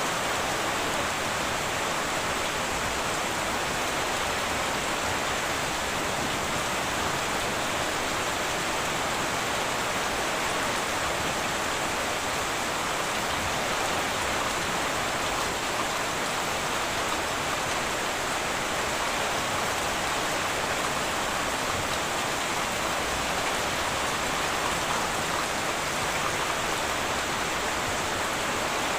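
Heavy rain falling steadily on a tin roof, an even unbroken hiss with no thunder.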